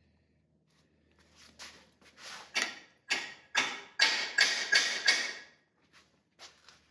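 Hammer blows on the driver bar of a Lisle 18000 cam bearing tool, driving a cam bearing into a small-block Ford block. There are about a dozen ringing metallic strikes, growing louder and quicker in the middle, then a few light taps near the end.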